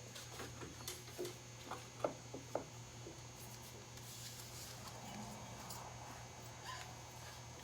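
A few light clicks and taps, some with a brief metallic ring, as hand tools and metal parts are handled, mostly in the first three seconds. A faint low hum runs underneath.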